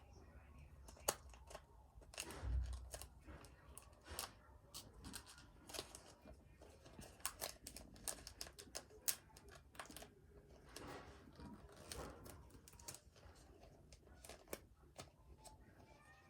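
Trading cards and plastic card sleeves being handled at close range: faint, irregular small clicks and plastic snaps as a card is worked into a tight sleeve, with a soft thump about two and a half seconds in.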